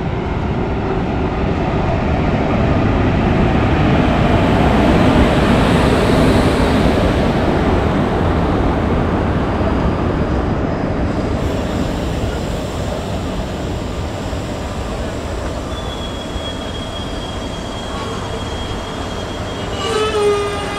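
A passenger train pulling into the station: the rumble of its cars passing close builds to a peak about five seconds in, then slowly eases as the train slows. A thin, steady, high squeal of wheels or brakes comes in later, and a brief pitched sound is heard near the end.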